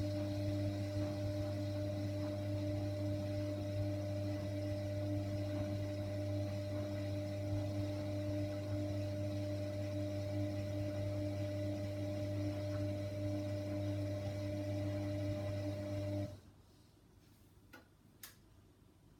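Hoover washer dryer running its main wash: a steady low mechanical hum that cuts off suddenly about sixteen seconds in. Two faint clicks follow near the end.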